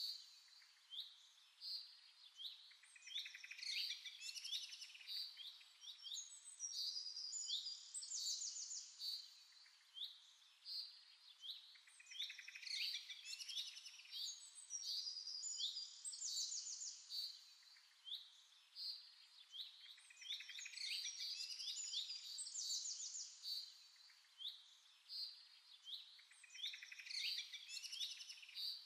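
Small birds chirping and trilling, high-pitched, in short phrases that come again every few seconds.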